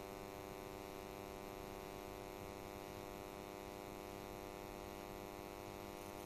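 Faint, steady electrical hum with many even overtones, unchanging throughout.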